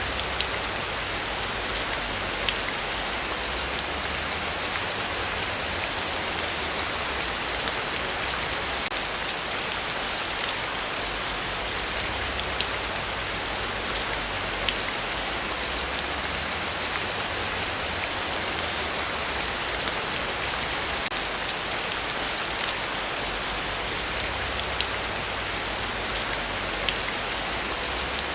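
Steady heavy rain falling, a dense even hiss with crisp drops ticking on close surfaces.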